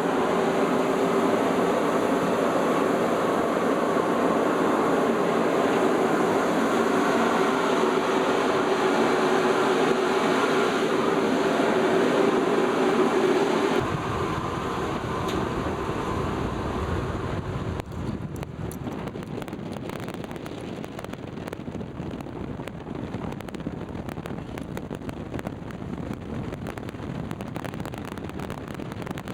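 Steady drone of a ship's machinery with a pitched hum. About fourteen seconds in it cuts off abruptly and gives way to a quieter, gusty low rumble of wind on the microphone.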